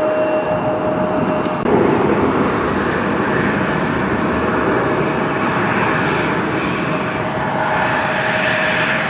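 Jet airliner engines running just after touchdown: a steady, loud roar with a thin steady whine through it, which changes abruptly about one and a half seconds in.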